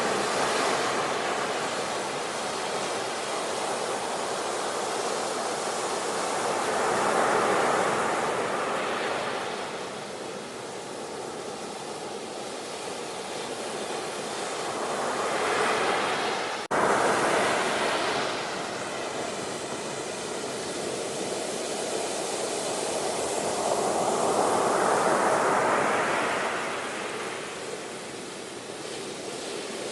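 Ocean waves breaking and washing ashore, swelling and fading in slow surges every eight to ten seconds. An abrupt cut about 17 seconds in, where the sound restarts mid-wave.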